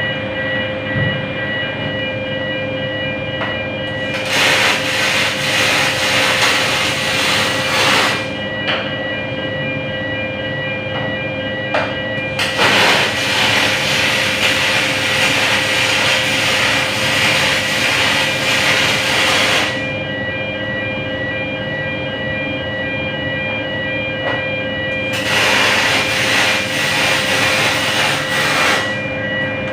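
MIG welding arc on aluminium, 1.2 mm wire from a Kemppi FastMig, hissing and crackling in three runs: from about 4 s in for four seconds, from about 12 s for seven seconds, and from about 25 s for three and a half seconds. A steady machine hum with a few whining tones runs underneath.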